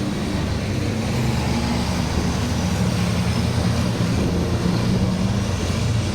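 Heavy truck engines running with a steady low drone whose pitch shifts slightly, typical of racing trucks at a truck grand prix.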